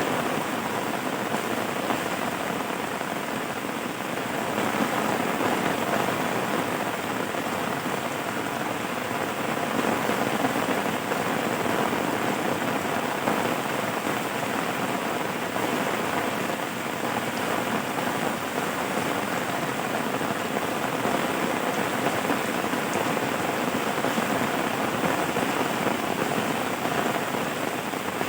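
Steady rain falling, an even dense patter with no let-up.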